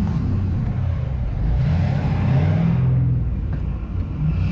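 Pickup truck engine revving up and easing back with the transmission put in reverse, while the wheels do not turn: the transmission is failing and not driving.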